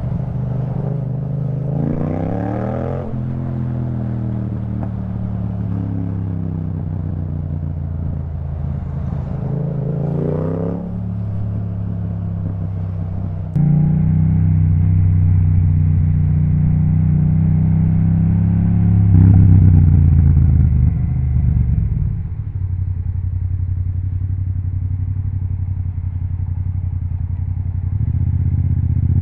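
Yamaha MT-07 parallel-twin engine through an Akrapovic titanium exhaust, pulling through the gears in traffic. The revs climb steeply about two seconds in, again around ten seconds, and near twenty seconds, dropping back in between.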